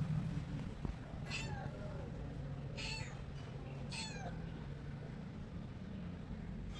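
Domestic cat meowing three times, each meow sliding down in pitch, over a steady low hum.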